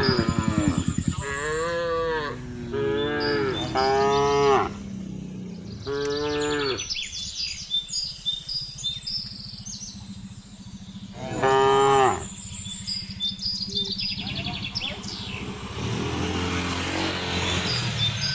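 Cattle mooing: a run of about five drawn-out calls in the first seven seconds, then one more loud call near twelve seconds in.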